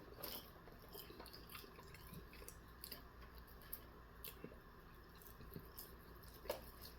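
Faint chewing of food, with scattered small mouth clicks and one slightly louder click near the end.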